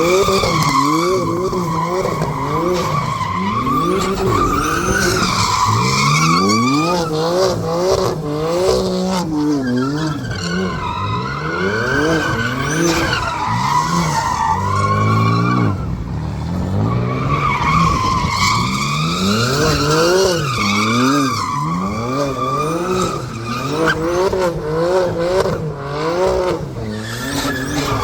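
Big-turbo BMW M4's turbocharged straight-six revving up and down again and again as the car drifts, over a continuous, wavering tyre squeal.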